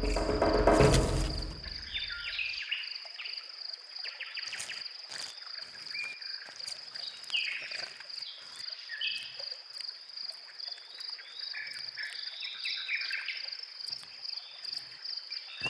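Background music fades out over the first two seconds, leaving a steady high insect trill, like a cricket's, with scattered short bird chirps over it.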